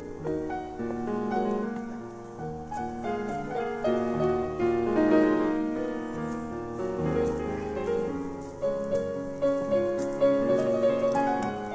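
Background piano music: a slow, gentle melody with held chords.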